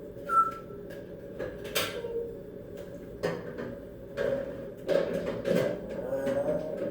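Metal clanking and rattling as a parrot knocks a fork against her cage: a few separate knocks, then a denser run of clatter from a little past halfway.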